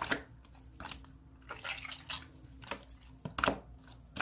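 Slime being squished and poked by hand, giving a run of irregular wet clicks and pops.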